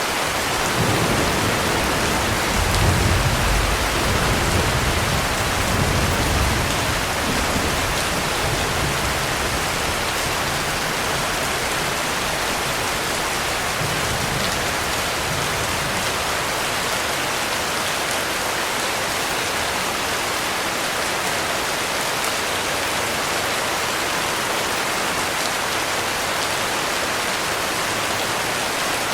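Heavy rain falling in a steady, dense hiss, with a low rumble of thunder through the first several seconds that swells about three seconds in and then fades.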